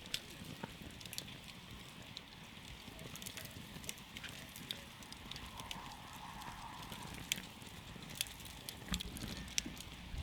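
Campfire crackling: burning wood giving irregular sharp pops and snaps over a low, steady rush of flame.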